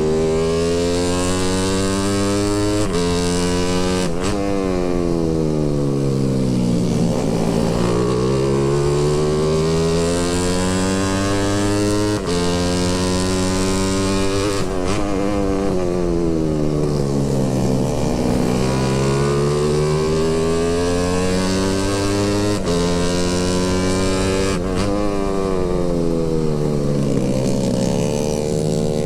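Motorcycle engine running under way, its pitch rising and falling over several seconds, with a few sudden steps in pitch as the revs change.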